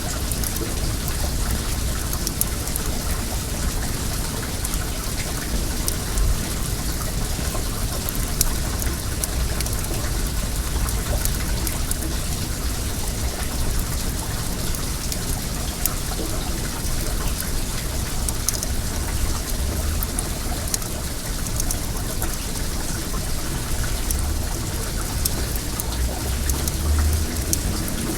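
A wood campfire crackling with scattered sharp pops over the steady rush of flowing well water, with a low rumble underneath.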